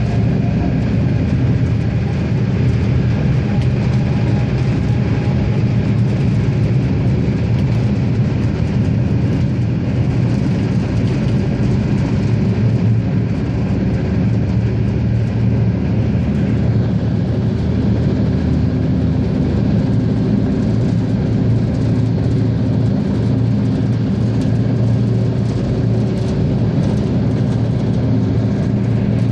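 RegioSprinter diesel railcar under way: its diesel engine drones steadily under the running noise of the wheels on the track.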